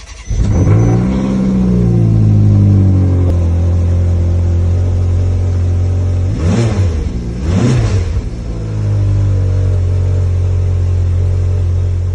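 Ferrari California's V8 catching on a cold start: it flares up and settles into a high idle whose pitch sinks slightly. About six and seven and a half seconds in come two quick throttle blips, each rising and falling, before it idles steadily again.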